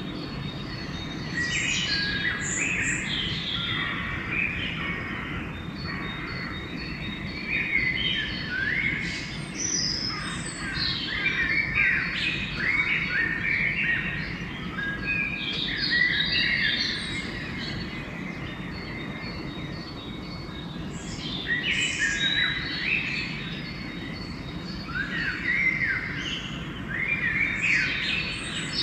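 Dawn chorus of several songbirds calling and singing over one another in quick chirps and rising sweeps, over a steady low rumble. The birds go quieter for a few seconds partway through, then pick up again.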